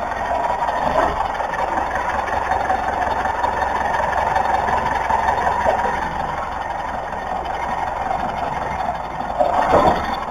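A car running with a steady hum, a faint knock about a second in and a louder clunk near the end: the weird noise the owner links to a shock absorber.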